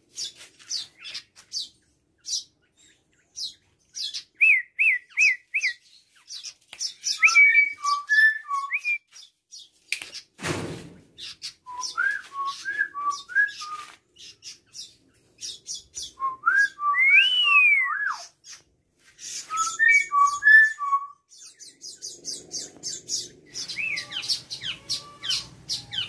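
Several birds calling: a rapid high twittering throughout, with groups of short clear whistled notes and, about two-thirds of the way in, one long whistle that rises and falls. A single thump about ten seconds in.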